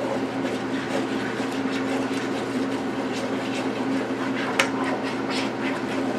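Roux gravy cooking in a pan, with scattered small clicks and a sharper tap of a utensil on the pan about four and a half seconds in, over a steady hum.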